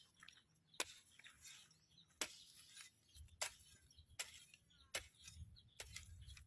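A series of sharp, short ticks, about one a second, over a faint low hum.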